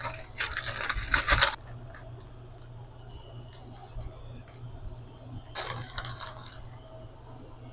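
Cookware and utensils clattering and scraping during stovetop cooking. There are two short bursts, about half a second in and again around six seconds, with small clicks between them and a steady low hum underneath.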